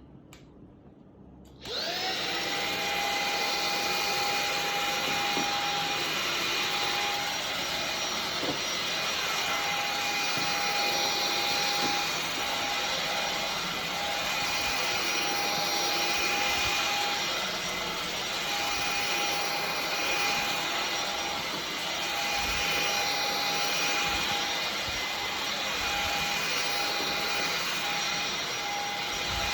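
Roborock H7 cordless stick vacuum, fitted with its mopping add-on, switching on a couple of seconds in. Its motor whines up to speed, then runs steadily with a high motor whine over airflow noise.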